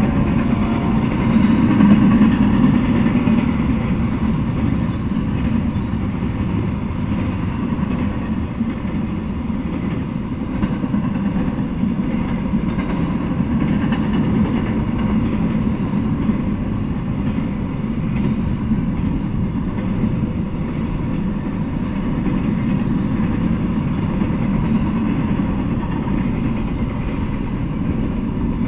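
Double-stack intermodal container freight train rolling past: a steady rumble of wheels on the rails.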